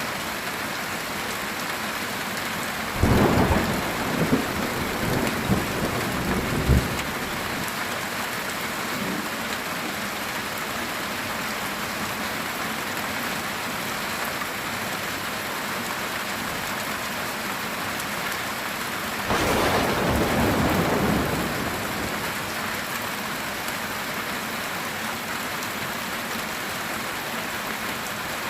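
Steady heavy rain on a metal tin roof. About three seconds in, a crackling thunder peal with several sharp cracks rumbles on for about four seconds. A second, softer roll of thunder follows about two-thirds of the way through.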